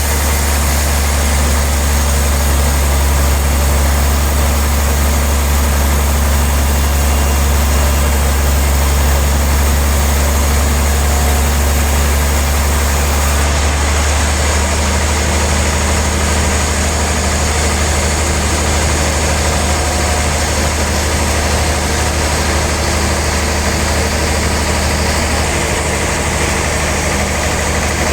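Sawmill machinery running steadily, a loud low engine hum under a broad hiss of the saw at work. About halfway through, the highest part of the hiss falls away while the hum carries on.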